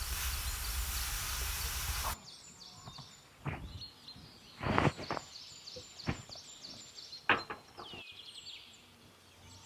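A loud steady rushing hiss that cuts off abruptly about two seconds in, then quick repeated high chirps from birds, a few every second, with four short sharp knocks.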